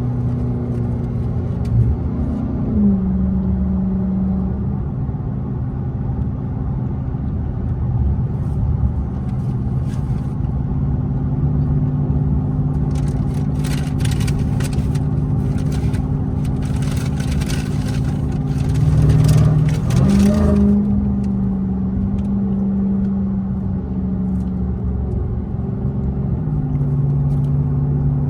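Dodge Charger Hellcat's supercharged V8 with the mid mufflers deleted, droning steadily under way. The pitch steps down a couple of seconds in, rises around twenty seconds and drops again near the end. A rushing hiss rides over it for several seconds in the middle.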